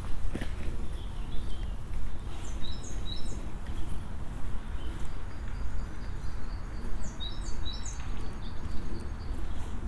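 Small songbirds chirping in two short runs of quick, high notes over a steady low rumble.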